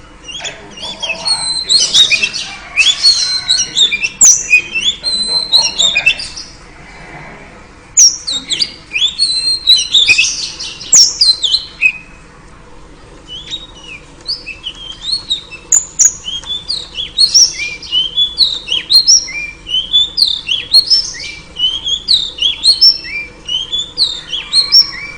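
Female oriental magpie-robin (kacer) chirping in three runs of quick, sharp, high notes with short pauses between. This is the call that keepers play to set a male magpie-robin singing.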